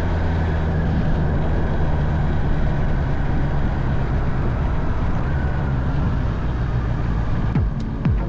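Honda CB650R inline-four running steadily at road speed, with a rushing noise over it. Near the end it cuts to electronic music with a regular thumping beat.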